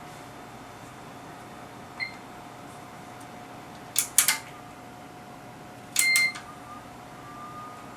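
Sharp clicks and knocks of bench equipment being handled and connected, loudest about four seconds in, with two short electronic beeps, a brief one about two seconds in and a longer one around six seconds, as the HP 3245A source is set up and powered on. A steady faint high tone runs underneath.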